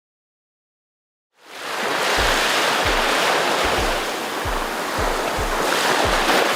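After about a second and a half of silence, loud rushing storm noise of typhoon wind and rain fades in and holds steady, with a music track's low beat thumping about every half second under it.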